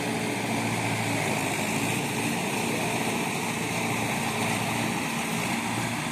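Tractor engine running steadily at a constant speed, with a noisy hiss over its low, even engine note.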